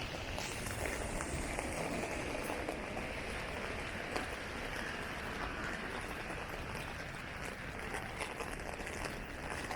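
Steady rain falling on pavement, with a few scattered drips.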